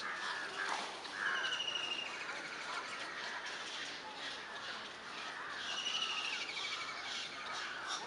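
Small birds calling: a fast trill of rapidly repeated high notes, falling slightly in pitch, heard twice, once about a second in and again near six seconds, over other scattered chirps.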